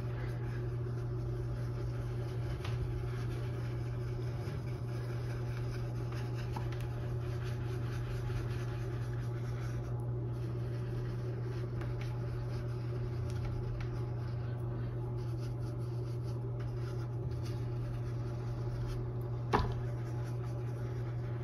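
A dry round mop brush swirled in small circles on canvas, a faint scratchy rubbing, over a steady low hum. There is one sharp click near the end.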